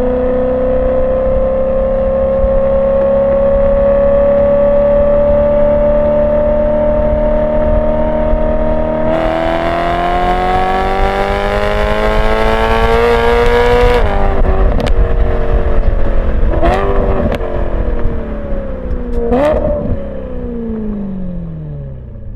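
BMW E92 M3's V8 through a Borla ATAK exhaust without venturi, heard from a microphone on the car while driving. The revs climb steadily, the note turns louder and harsher about nine seconds in and keeps rising, then drops abruptly about fourteen seconds in. Two short throttle blips with pops follow, and the revs fall away near the end.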